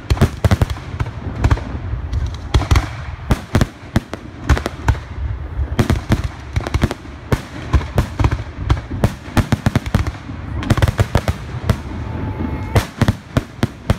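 Fireworks display: a rapid, irregular barrage of sharp bangs and crackles, several a second, over a constant low rumble, with a brief whistling tone about twelve seconds in.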